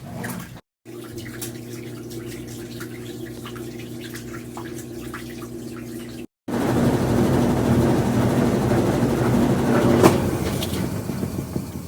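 Consul CWC10 washing machine running: a steady motor hum, then after a short break a louder, noisier churning with the same hum underneath.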